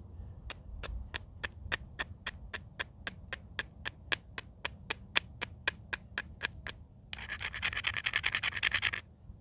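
Stone worked against stone in flintknapping: a steady run of light, sharp clicks, about four a second, then near the end about two seconds of rapid, harsher scraping that stops suddenly, as when an edge is ground or abraded.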